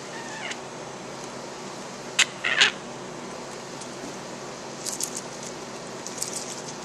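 Imperial Amazon parrot chick calling for food: a short call at the start, two loud harsh calls about two seconds in, then clusters of brief high squeaks near the end, over a steady background hiss.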